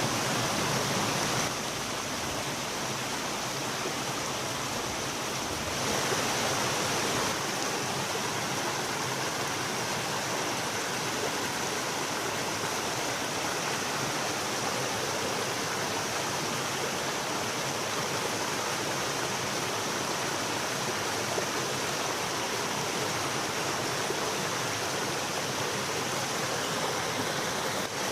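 Mountain valley stream flowing with a steady rush of water, the level shifting slightly a couple of times.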